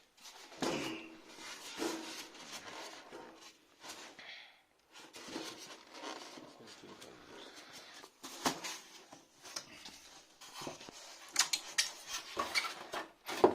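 Metal wire grill racks clinking and rattling as they are handled and lifted out of a microwave oven's cavity. Scattered sharp clinks over rustling handling noise, with the loudest clinks in the second half.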